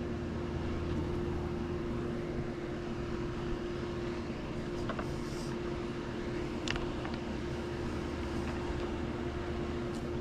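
Swimming pool pump motor running with a steady hum, with a few faint clicks about halfway through.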